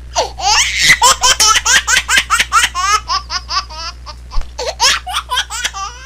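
Baby laughing: a long run of quick, high-pitched laughing bursts, about four or five a second, that pauses briefly about four seconds in and then starts again.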